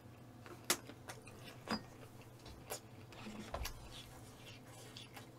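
Chewing close to the microphone: a few short mouth clicks and smacks about a second apart, over a low steady hum.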